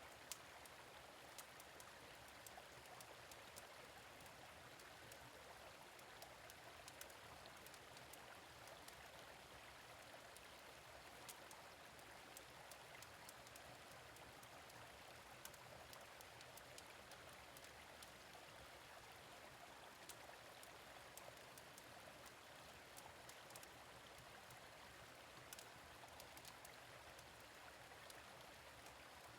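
Faint, steady running water of a gentle stream, with scattered small crackles from a fire pit.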